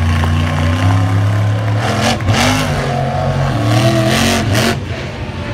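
Monster truck engine revving up and down in several short blips, with a couple of brief rushes of noise in between.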